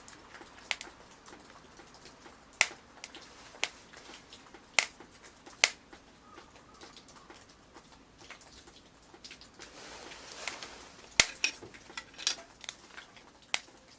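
Wood fire crackling: a Swedish torch log burning, giving sharp, irregular pops, about a dozen of them, over a faint hiss.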